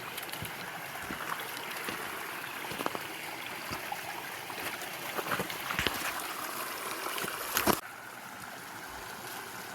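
Creek water running over rocks, with scattered close knocks and clicks and one louder knock about three-quarters of the way in.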